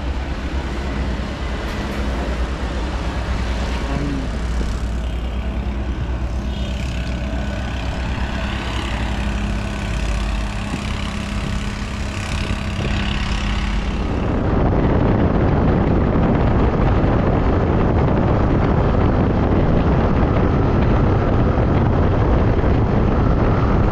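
Vehicle running along a track: a steady low engine rumble with a faint hum. About 14 s in, it turns into a louder, rougher rush of noise.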